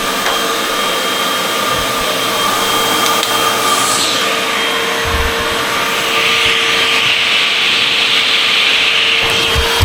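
Vacuum cleaner running steadily, its motor giving a constant whine over a rushing airflow noise. A brief falling whistle comes about four seconds in, and the hiss grows brighter from about six seconds on.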